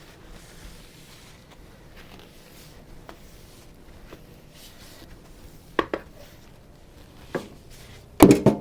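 Kitchen items being handled on a counter: a few scattered knocks, then a louder clatter of several knocks near the end.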